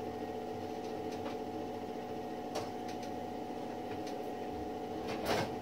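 Steady low hum with a few faint clicks and a short rattle near the end, from small parts being handled while searching for a typewriter key.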